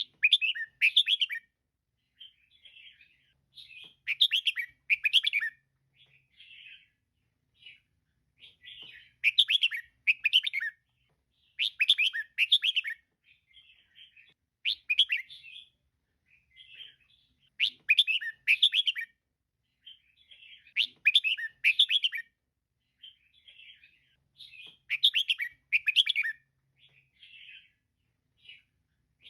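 Female red-whiskered bulbul calling: loud bursts of quick chirped notes about every three seconds, with fainter chirps between them.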